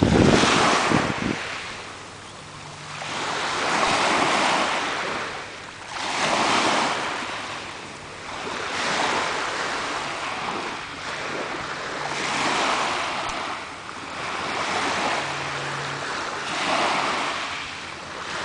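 Ocean surf breaking and washing up the beach, the hiss rising and falling every few seconds, with wind buffeting the microphone in the first second or so.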